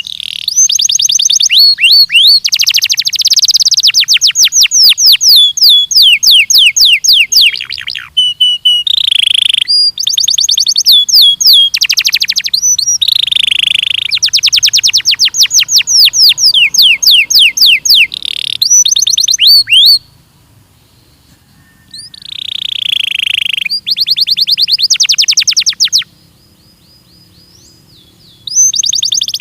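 Belgian canary song: long, fast trills of rapidly repeated sweeping notes, one roll after another. The song breaks off twice, once about two-thirds of the way through and again near the end.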